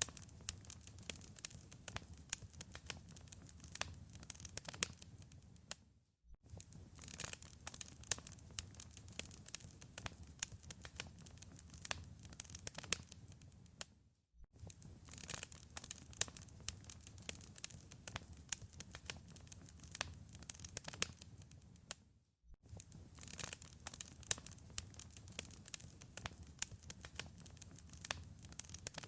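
Wood fire crackling in a fireplace: dense, sharp pops and snaps over a low rumble of flames. The sound drops out to silence for a moment three times, about every eight seconds.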